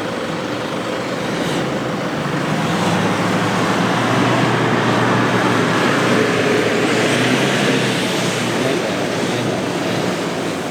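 Diesel 4x4 SUV engine working under load on a soft off-road trail, with a broad rushing noise over it. It grows louder over the first few seconds and eases near the end.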